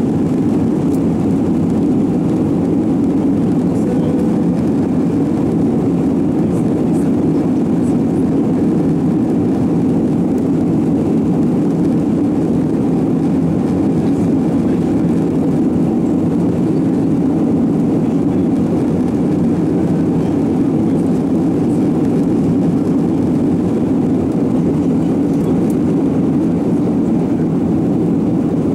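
Steady cabin roar of an Airbus A321-131 in flight: its IAE V2500 turbofans and the rush of air over the fuselage, a deep even drone that holds level throughout.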